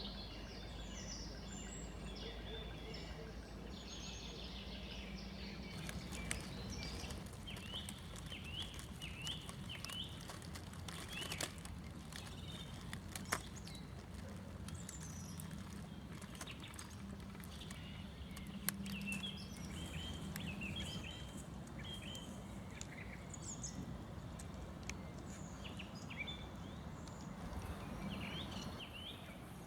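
Spring morning chorus of forest songbirds: many short chirps and calls overlapping, over a steady low background hum. A few sharp clicks stand out.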